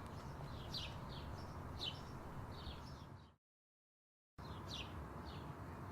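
Small birds chirping, short quick downward chirps a few times a second, over a steady low background noise. About halfway through, the sound cuts out to dead silence for about a second, then the chirping resumes.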